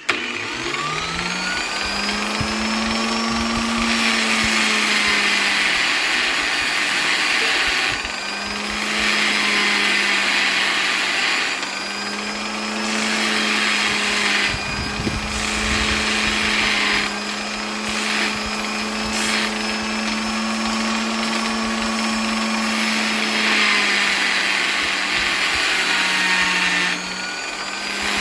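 Electric polisher motor spinning up in the first second, then running steadily, with its hum and whir growing louder and quieter every few seconds.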